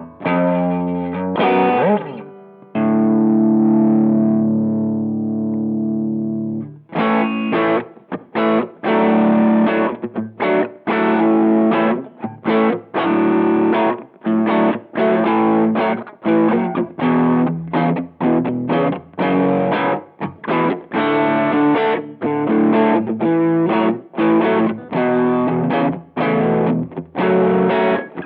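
Electric guitar played through a Behringer Vintage Overdrive TO100, a Tube Screamer-style overdrive pedal, giving a driven, distorted tone. A few quick notes lead into a chord left ringing for about four seconds, then a long run of short, choppy chords, each cut off with a brief gap before the next.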